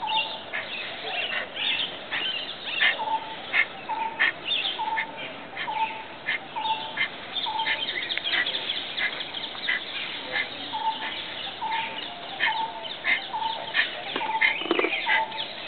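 Birds calling: one bird repeats a short, even note about twice a second in two long runs, over scattered chirps from other birds.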